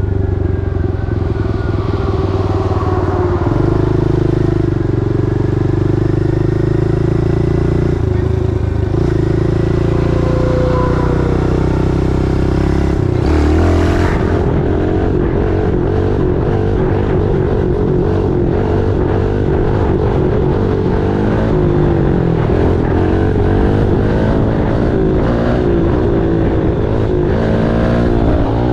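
Pit bike engine running under way: its revs hold fairly steady at first, change abruptly about halfway through, then rise and fall repeatedly as the throttle is worked.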